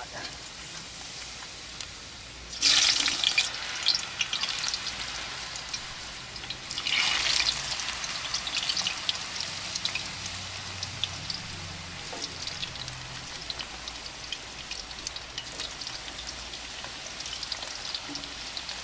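Sweet potato fries sizzling and crackling in hot oil in a skillet. The sizzle flares loudly twice, about three seconds in and again about seven seconds in, as slices go into the oil, then settles to a steady crackle.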